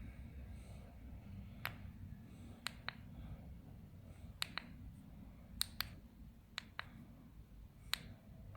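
Sharp clicks or light taps at irregular intervals, several coming in quick pairs, over a low steady rumble.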